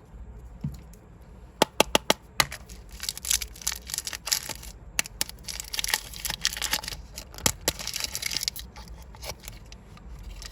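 A few sharp plastic clicks, then a run of crinkling and tearing as a plastic candy wrapper is unwrapped.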